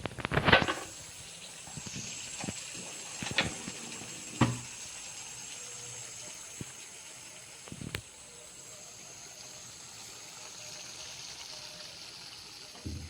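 Chicken curry sizzling and simmering in the pan, a steady hiss, with a few sharp knocks of a utensil against the pan, the loudest about half a second in.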